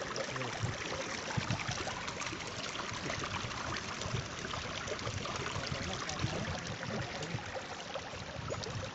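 Water flowing in a stream, a steady rushing with small splashes.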